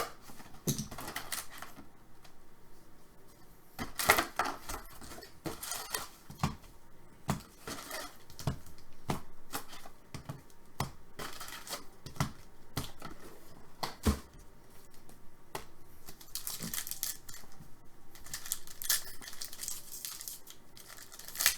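Trading cards and their packaging being handled on a table: irregular clicks, taps and light rustling, with a few louder knocks, the loudest about four seconds in.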